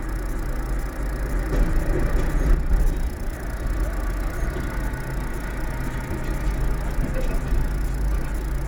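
Vehicle engine idling steadily, with a lorry driving past near the end.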